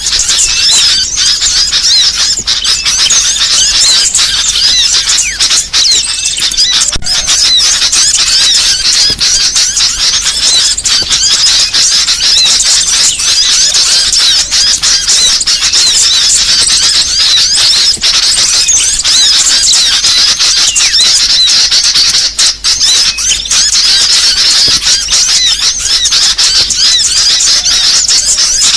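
Dense, loud chorus of many small songbirds chirping and twittering at once without a break: a bird-lure recording of agitated small birds, played to draw small birds in for trapping.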